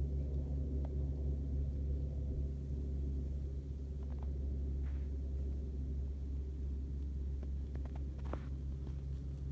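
Steady low engine hum, like an idling car, with a few faint clicks.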